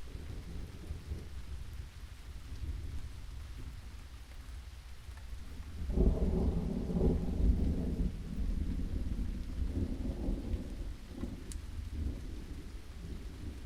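Steady rain with a low rumble of thunder underneath. About six seconds in, a louder roll of thunder swells up and slowly fades away over several seconds.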